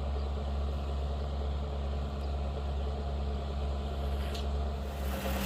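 Tractor engine running steadily at a low, even note, like an idle.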